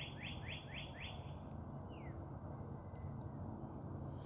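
A bird singing a rapid trill of short down-slurred chirps, about five a second, that stops about a second and a half in. A single falling whistle follows, over a steady low background rumble.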